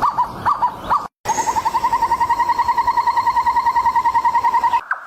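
A bird calling in short repeated notes: about three rising notes a second, then after a brief break a fast, steady series of about a dozen notes a second.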